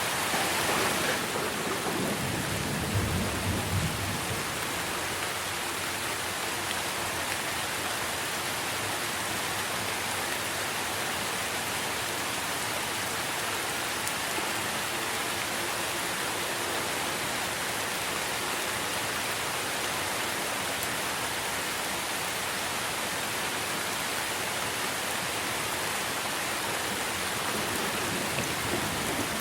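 Steady rain falling on tree leaves, with a low rumble of thunder about two to four seconds in.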